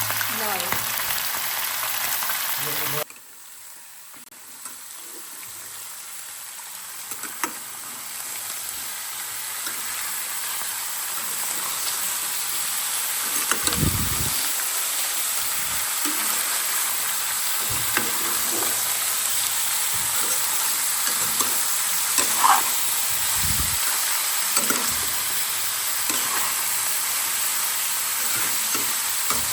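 Chicken meat frying in ghee in a pan: a steady sizzle that drops away about three seconds in and slowly builds back up, with occasional knocks and scrapes of the stirring spoon.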